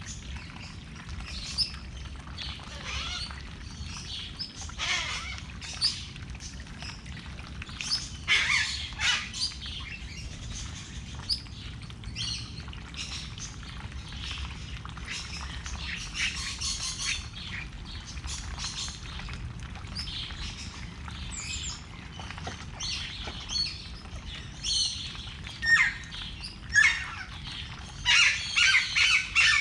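Birds calling: a scattered run of short chirps and squawks, busiest about eight seconds in and again near the end, over a steady low rumble.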